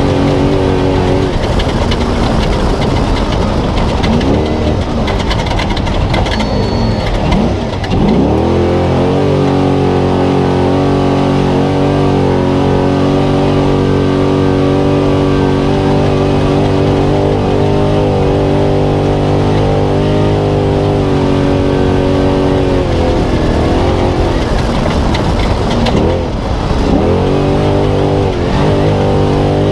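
Spec Trophy Truck engine racing flat out, heard onboard: revs vary for the first few seconds, drop and climb back up about a quarter of the way in, then hold steady at high revs for a long stretch, with another brief lift and re-acceleration near the end.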